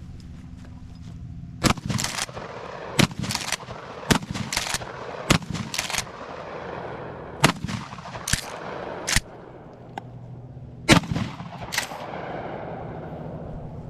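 Norinco 1897 12-gauge pump shotgun firing a string of shots, the pump slide worked between them. Sharp reports and clacks follow one another about every half second to second, with a short pause near the end before the last two.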